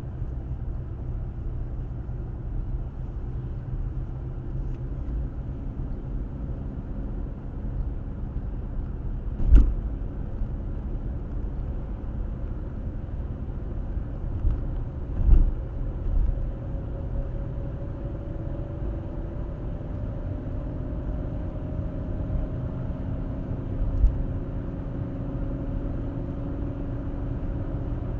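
Car driving along a road, heard through a dashcam: a steady low rumble of road and engine noise with a few faint steady tones. Three short thumps stand out, about ten, fifteen and twenty-four seconds in.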